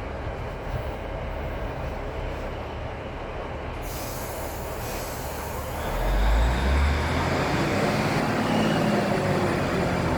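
A train pulling out of the station. Its noise grows louder about six seconds in, with a deep rumble and a faint rising note as it gathers speed.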